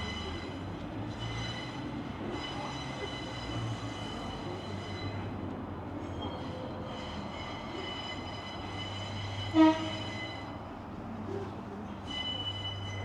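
A heritage train running on the line, with a low rumble and high steady wheel squeal that comes and goes. About two-thirds of the way through there is a brief, loud toot.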